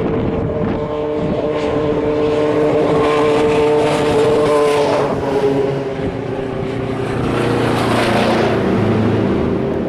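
Several endurance race cars at speed, their engine notes overlapping and shifting in pitch as they pass.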